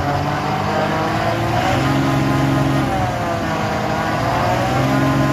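Truck engine running under load as the driver tries to move the stuck lorry forward. The engine speed dips and rises again midway through.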